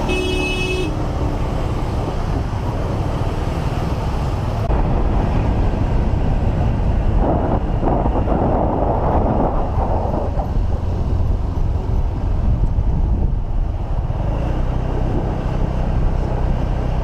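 Steady traffic and road noise while riding a motor scooter, with a short vehicle horn toot right at the start. The noise swells for a few seconds around the middle.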